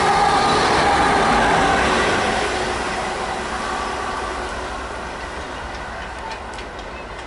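A GWR High Speed Train with Class 43 diesel power cars running past at speed and moving away, its wheel and engine noise fading steadily.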